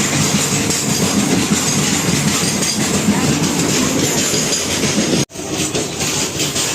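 Indian Railways sleeper coach of an express train running at speed: the steady noise of its wheels on the rails, heard from the coach doorway. The sound cuts out for an instant about five seconds in.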